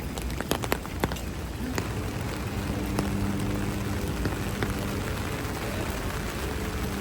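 Heavy rain falling and splashing on surfaces, with several sharp drip ticks in the first second or so. A steady low hum joins in about two seconds in.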